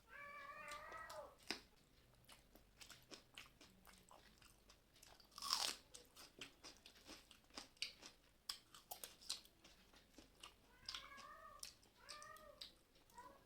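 Close-up chewing and crunching of food, a scatter of small crunches with one louder bite in the middle. A cat meows at the start and twice more near the end.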